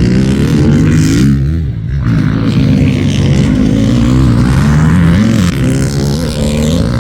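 Motocross dirt bike engines revving, their pitch rising and falling as the riders work the throttle, with a brief dip about a second and a half in.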